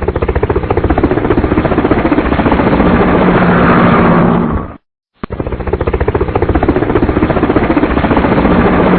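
Tractor diesel engine running with a rapid, even chugging. It cuts off just before five seconds in and starts again the same way, like a short recording played on a loop.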